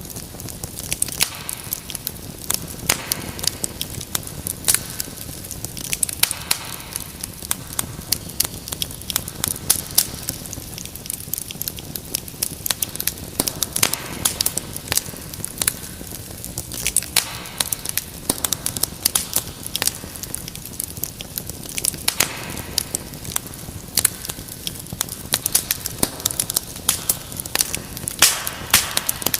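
Wood fire in a fireplace crackling: a steady hiss with dense, irregular pops and snaps.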